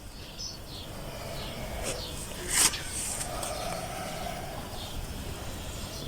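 Outdoor ambience with a steady low rumble and a few faint chirps early on, broken by one brief scrape or rustle about two and a half seconds in.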